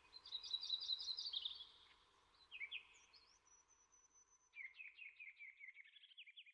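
Songbird singing faintly: a fast trill of repeated high chirps, then a few short chirps and a thin high whistle, then another long run of rapid repeated notes near the end.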